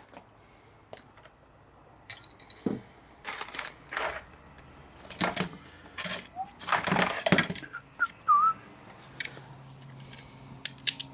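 Metal tools and parts clinking and clattering: a series of irregular light taps and knocks, some with a short metallic ring.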